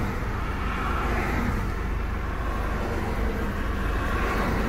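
Steady road traffic: cars going by with engine rumble and tyre noise.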